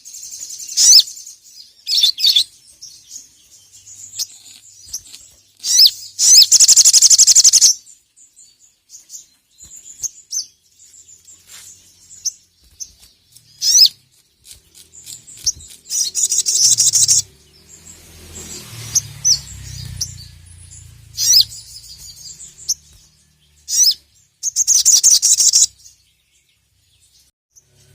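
A sogok ontong (sogon) bird singing in loud bursts of high, rapid chattering trills, about a dozen phrases separated by short pauses, the longest lasting about two seconds.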